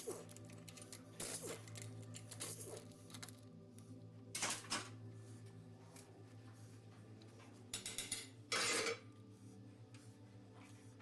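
Metal tools and engine parts clinking and clattering during diesel engine disassembly, in scattered knocks with a louder clatter near the end, over a steady low hum.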